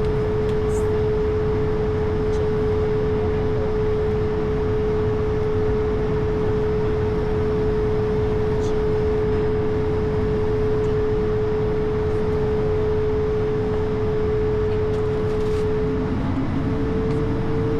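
Cockpit noise of an Airbus A220: the Pratt & Whitney geared turbofan engines and airflow make a steady rushing noise with a steady whine over it. Near the end the whine steps slightly higher and a second, lower tone comes in.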